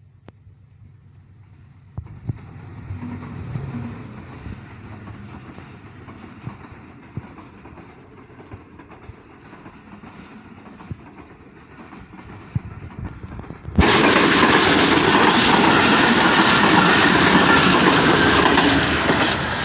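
Train running along the track, its wheels clicking and knocking over the rail joints with a steady rumble. About fourteen seconds in the sound jumps suddenly to a much louder rush as the train passes close by.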